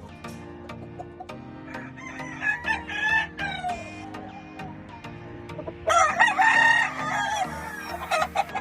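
Gamefowl roosters crowing: one crow about two and a half seconds in, then several crowing over one another, louder, around six seconds in.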